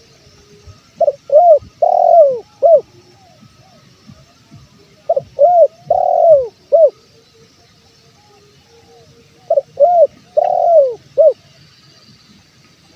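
Spotted dove cooing in three phrases about four seconds apart. Each phrase is two short coos, a longer rolling coo, then a short closing coo. Faint chirps of other birds can be heard between the phrases.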